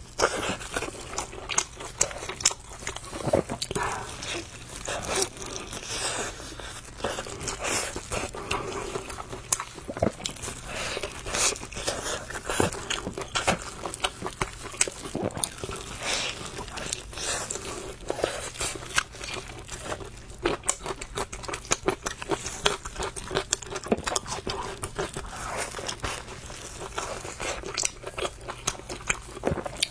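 Close-miked eating of a bowl of spicy noodles: repeated crunchy bites and chewing, a dense run of sharp clicks and crackles.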